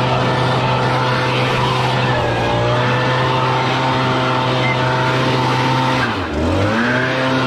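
Small gasoline engine running steadily at high speed. About six seconds in, its pitch dips sharply and recovers within about half a second, as if briefly loaded.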